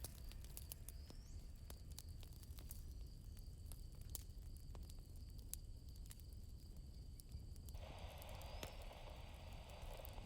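Campfire crackling faintly, with scattered sharp pops over a low rumble and a thin, steady chirring of crickets. About eight seconds in, a rustling hiss starts and runs on.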